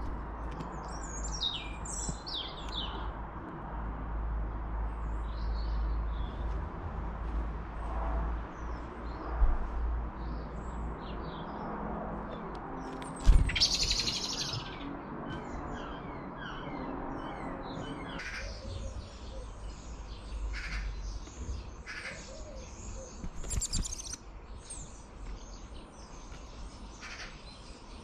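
Garden birds chirping and calling in short scattered notes over a steady low rumble of outdoor background noise. About thirteen seconds in comes a single sharp knock followed by a brief rush of noise, the loudest sound here.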